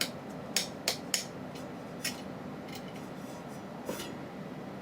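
A ceiling fan's switch being clicked: several sharp clicks in the first second or so, then a couple more spaced out, over a faint steady hum. The motor does not start, and the switch is thought to be bad.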